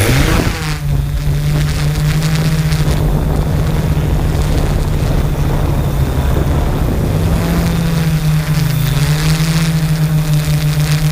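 Small camera drone's propellers whirring with a steady pitched hum. The pitch shifts briefly near the start and again about eight seconds in.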